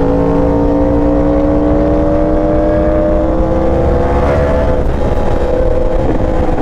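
A motorcycle engine held at high revs under way. Its note climbs slowly for the first few seconds, then holds steady, over constant rushing wind noise.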